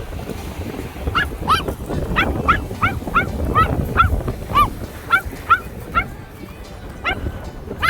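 An animal calling in a quick series of short arched yelps, about three a second, then two more near the end, over a low rumble.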